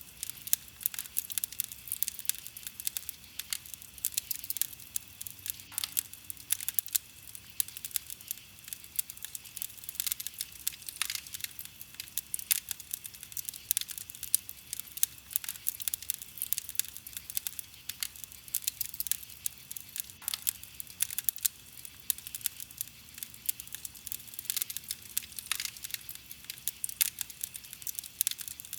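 Wood fire crackling without pause: a dense stream of small snaps and pops, with sharper pops scattered throughout.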